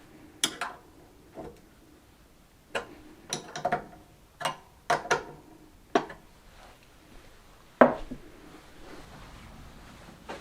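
A series of irregular sharp clicks, knocks and clatters from tools and metal parts being handled and set down on a workbench, the loudest knock about eight seconds in.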